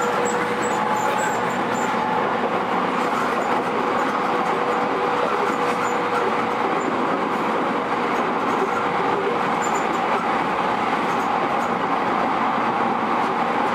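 JR East E231 series electric train running at steady speed: an even, continuous noise of wheels on rail and running gear.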